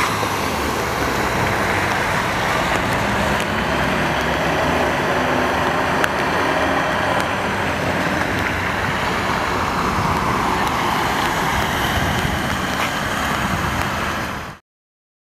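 Floodwater rushing down a flooded street in a steady, loud wash of noise that cuts off abruptly near the end.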